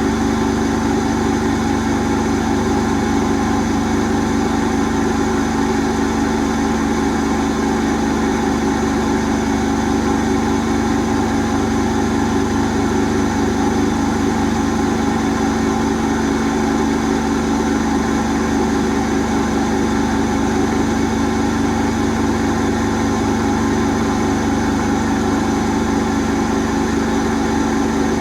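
Asko Quattro W6098X washing machine in its final spin, set to a limit of 1600 rpm: the drum and motor hum steadily with an even whine, holding the same speed throughout.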